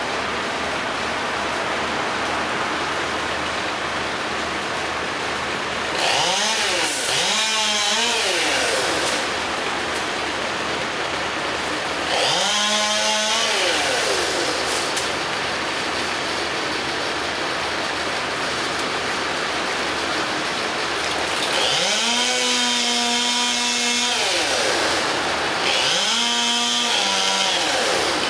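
Chainsaw revving up and back down in about five short bursts, the longest about two seconds, over a steady rushing background noise.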